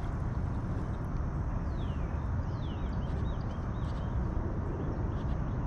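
Wind rumbling on the microphone, with a bird repeatedly calling short whistles that fall in pitch.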